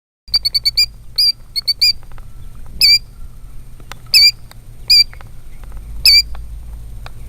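Killdeer giving sharp, high alarm calls in defence of its eggs. A quick run of notes comes first, then single calls about a second apart, over a low steady rumble.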